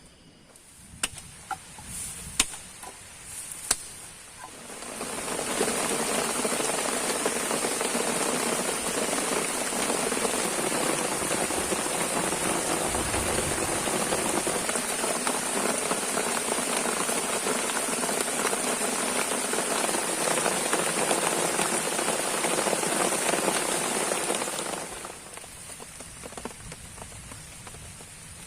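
Heavy rain pouring down, a loud even hiss that sets in about five seconds in and falls away about twenty-five seconds in. It is preceded by a few sharp snaps.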